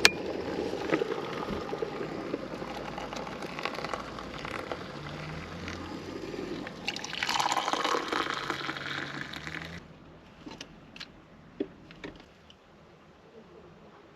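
Water being poured into a pot of oats, the sound of the pour rising as the pot fills, then stopping about ten seconds in, followed by a few light clicks.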